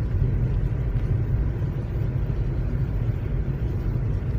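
Steady low rumble of a Lada Vesta driving over a snow-drifted road, heard from inside the cabin: engine, tyre and road noise.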